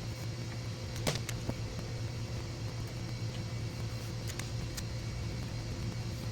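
Steady low hum with a few short, light clicks and taps of hands handling plastic panels and tape.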